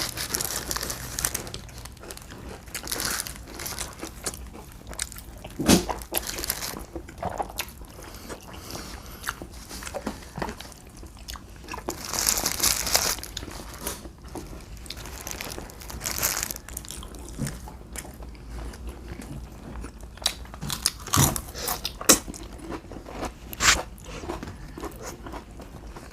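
Close-up eating sounds: biting and chewing food near the microphone, with irregular crunchy bites and wet mouth clicks.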